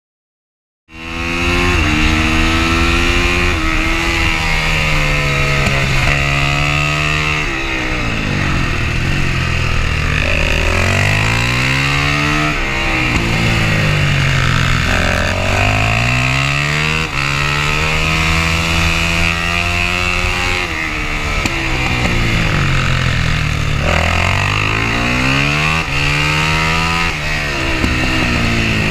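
Supermoto motorcycle engine heard from onboard at speed, starting about a second in. Its pitch repeatedly climbs as it accelerates and drops away as it slows for the corners, with a steady rush of wind noise underneath.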